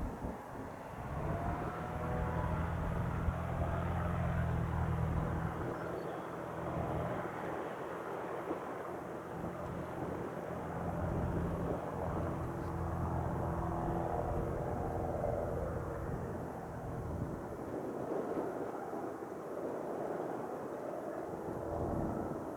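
Single-engine Cirrus propeller airplane at takeoff power, a steady low engine drone that is loudest a few seconds in. The drone dies away after about seventeen seconds.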